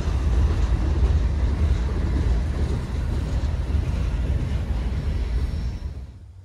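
A passenger train rolling past, a loud steady rumble with wheel noise on the rails that dies away near the end.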